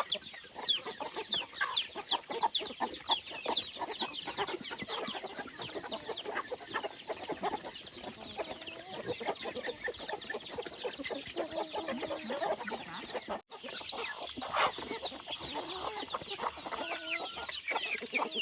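Chickens calling: a dense run of high peeping chirps, each falling in pitch, with a few lower clucking calls mixed in. The sound cuts out briefly about two-thirds of the way through.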